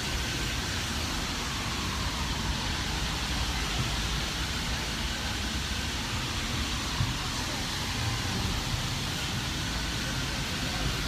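Steady city street noise: road traffic rumbling and hissing past, with no single event standing out.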